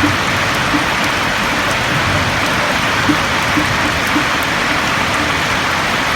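Steady rain falling on a roof, with a few louder drops standing out now and then.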